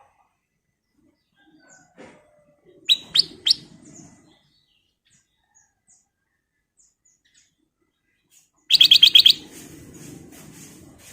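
Black-crested bulbul calling: three sharp, high notes about three seconds in, then a quick run of about eight rapid notes near the end, the loudest part, with faint chirps in between.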